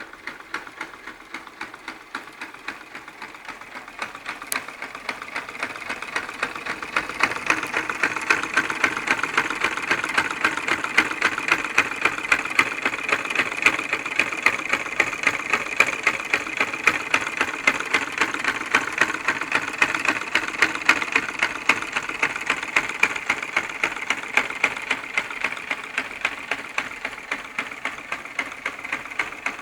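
Electromagnetic piston engine running, its pistons clacking in a fast, even rhythm. The clacking grows louder about six seconds in and then holds steady.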